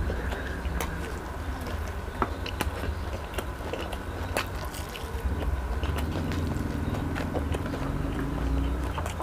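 Close-up chewing of fried chicken, with scattered sharp wet mouth clicks and crunches, over a steady low rumble.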